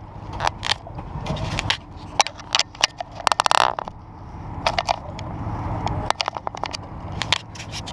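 Irregular metallic clicks, knocks and scrapes of hand tools at work, with a quick run of rapid clicks about three and a half seconds in, over a low steady rumble.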